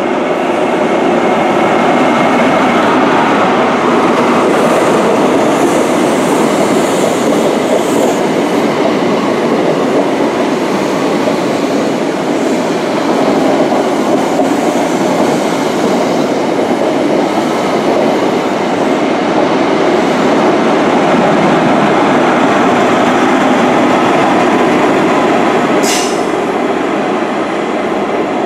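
InterCity 125 high-speed train with Mk3 coaches running past along the platform: a loud, steady rumble of wheels on the rails with some clickety-clack. A brief sharp click comes near the end.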